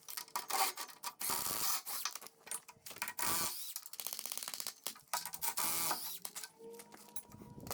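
Metal tools and parts being handled, clattering and scraping, with a quick run of even clicks a little over halfway through.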